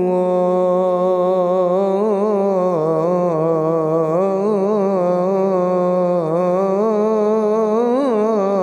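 A male muezzin's voice chanting the call to prayer, holding one long unbroken melismatic phrase. The pitch winds up and down in ornaments around a steady line, with a higher swell near the end.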